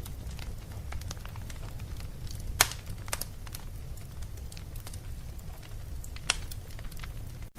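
Wood fire burning in a fireplace: a steady low rumble of flame with scattered sharp crackles and pops, two of them louder than the rest. The sound cuts out for a split second near the end.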